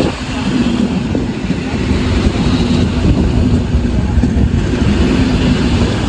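Electric multiple unit train running at the station, a loud steady low rumble with a held hum that breaks now and then.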